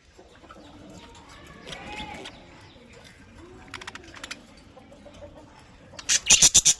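A colony of budgerigars chattering, with a short pitched call about two seconds in and a burst of loud, rapid chirps near the end.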